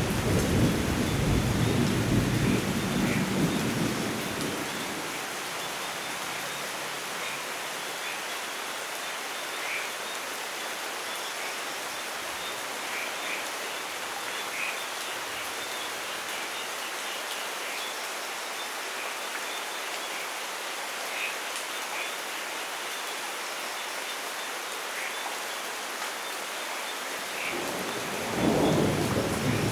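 Steady heavy rainfall in a rainforest with thunder. A deep rumble dies away over the first four to five seconds, and another rumble builds near the end. A few faint short chirps are scattered through the rain.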